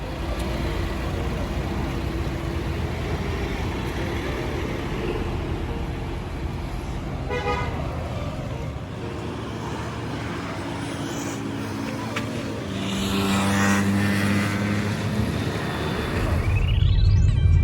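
Road traffic noise with a car horn sounding briefly twice, about seven seconds in and again near thirteen seconds.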